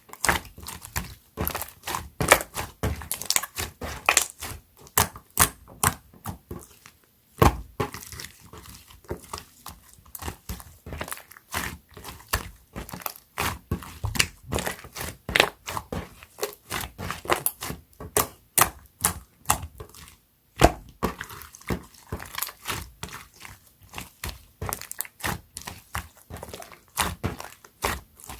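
Clear slime being squeezed and pressed by hand, making a fast, irregular run of sticky clicks and pops, with a couple of brief pauses.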